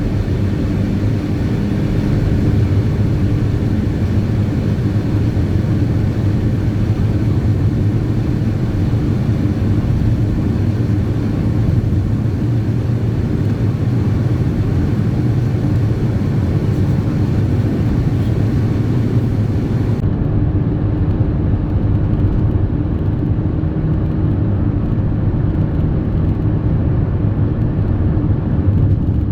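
Car driving along, heard from inside the cabin: a steady low engine and road rumble that holds even throughout.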